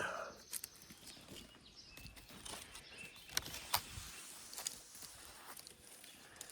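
Faint footsteps in long grass: scattered soft clicks and rustles over a quiet outdoor background.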